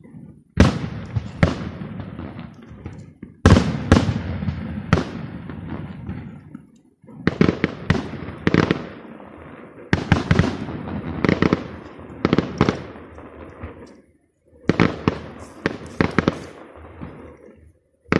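Aerial firework shells bursting in quick clusters: about twenty sharp bangs come in groups of two to five, separated by brief lulls, and each bang trails off in a rumbling echo.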